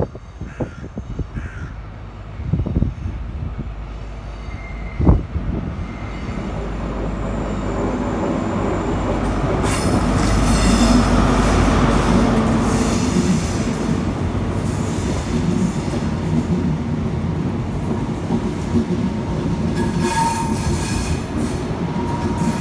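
GWR diesel passenger train running into the platform and past close by, its rumble growing louder to a peak about halfway through. Wheels squeal in thin high tones as it passes, with a sharp knock shortly before.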